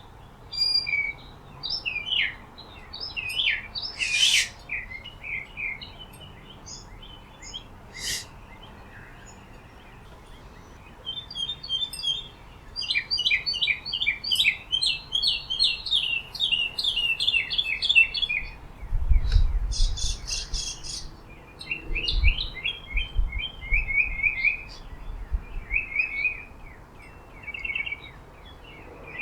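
Wild birds chirping and twittering in quick runs of short notes, with a quieter stretch around ten seconds in. Brief low rumbles come twice in the second half.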